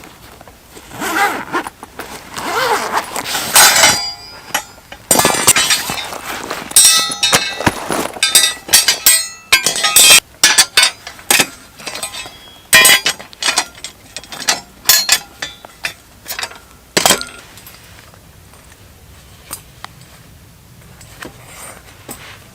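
Hard objects being handled: a quick, irregular series of sharp clinks and knocks, some with a brief metallic ring, that stops about seventeen seconds in.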